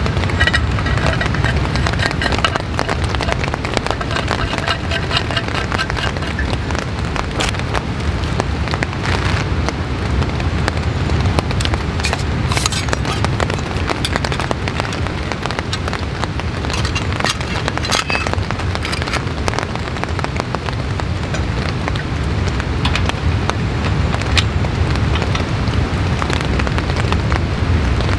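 Steady light rain pattering, with many scattered drop ticks throughout.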